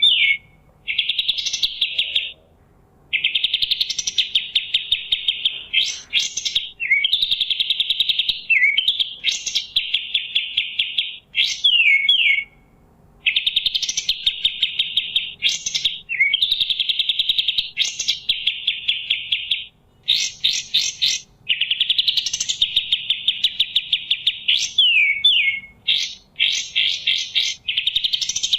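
Kapas tembak bulbul singing: phrase after phrase of fast, chattering trills, each a second or two long with short pauses between, broken by quick sharp whistled sweeps up and down.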